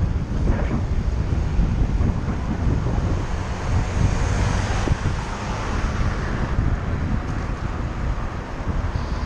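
Wind buffeting the microphone of a camera on a moving bicycle, a dense low rumble, with road traffic noise mixed in and a brighter hiss swelling about four to five seconds in.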